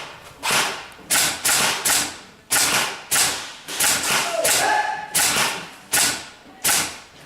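Airsoft guns firing single shots, a sharp crack roughly twice a second at uneven spacing, each echoing briefly in a hard-walled room.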